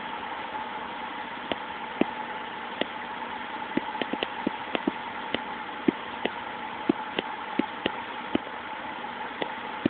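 Vauxhall C30SE 3.0 24-valve straight-six engine idling steadily, with irregular sharp ticks about once or twice a second over its hum.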